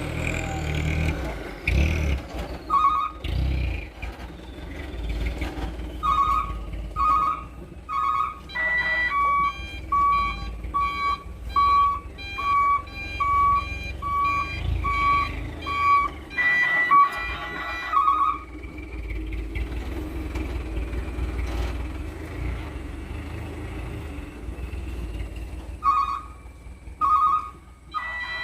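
Dump truck's reversing alarm beeping steadily, about one beep a second, over the low running of its diesel engine as it backs up. A few short two-note, tune-like passages break in between the beeps.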